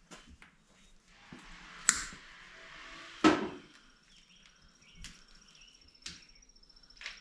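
Hand tools knocking and clinking on metal during work on a truck's heater hoses and hose clamps: two loud sharp knocks about two and three seconds in, then a few lighter ones. A faint, high, pulsing tone starts about halfway through.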